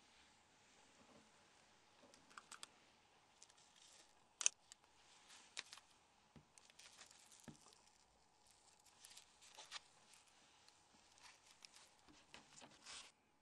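Near silence, with faint scattered clicks and scrapes of small plastic phone parts and tools being handled during disassembly. One sharper click comes about four and a half seconds in.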